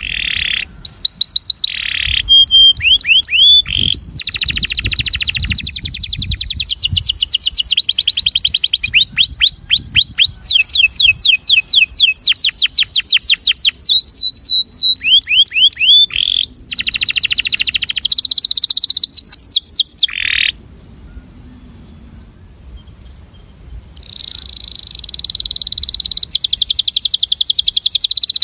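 Male canary singing long trills of rapid repeated notes, several a second, changing from one trill type to the next. It breaks off about two-thirds of the way through and starts a new trill a few seconds later.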